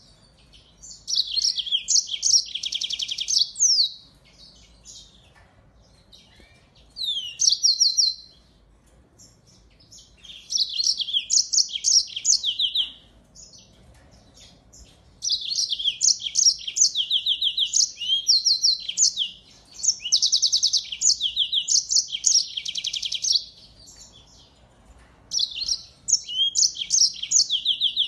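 A small finch singing clear, high-pitched phrases of fast trills and chirps, each lasting one to a few seconds with short pauses between. About halfway through, one unbroken run goes on for about eight seconds.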